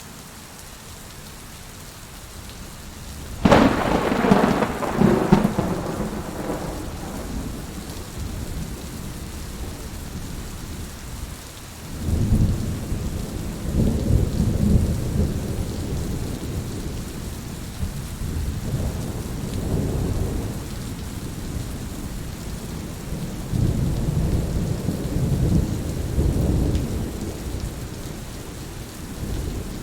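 Heavy rain falling steadily in a thunderstorm. A sharp clap of thunder comes about three and a half seconds in and rolls away over several seconds. Low rumbles of thunder swell up again several more times later on.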